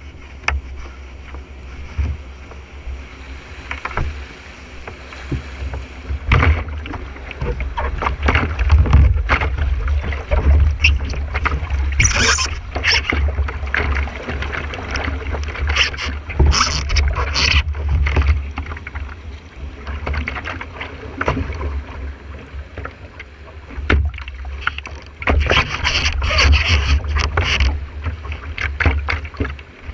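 Water splashing and rushing around a whitewater canoe and its paddle, in irregular surges, with a low wind rumble on the microphone.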